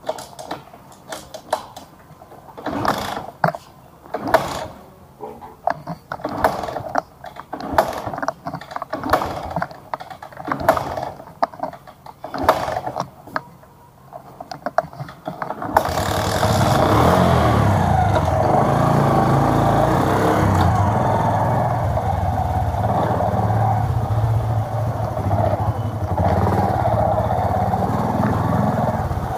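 A series of irregular sharp taps and knocks on a hard floor. About halfway through, the steady running of a two-wheeler engine cuts in suddenly and carries on.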